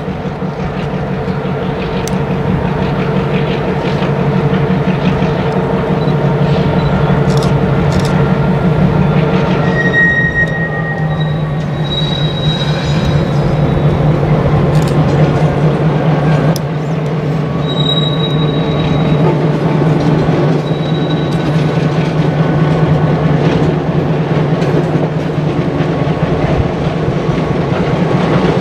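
Diesel locomotive pulling a freight train of gondola cars past. Its engine drone is steady and grows louder over the first few seconds, with brief high wheel squeals in the middle and the clicks of wheels over rail joints.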